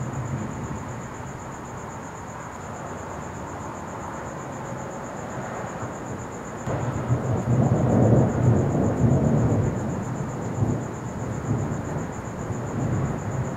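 Thunder from a lightning storm: a low rolling rumble that swells about seven seconds in and trails off over several seconds, over a steady hiss.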